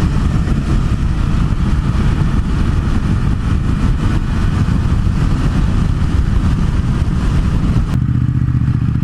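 MV Agusta Turismo Veloce 800's three-cylinder engine running under a loud rush of riding wind. About a second before the end the wind falls away and the engine settles to a steady idle.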